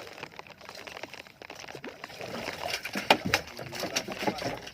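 Water splashing and sloshing with sharp knocks against a small boat as a longline is hauled in, growing louder and busier about halfway through.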